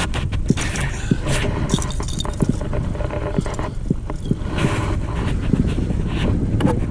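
Wind buffeting the microphone with a constant low rumble, broken by many small sharp knocks and scrapes and a few short rushes of hiss.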